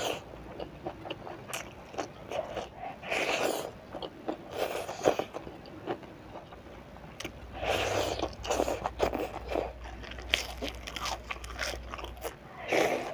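Crunching bites and chewing of fried sepat fish, in irregular bursts of crackly crunches.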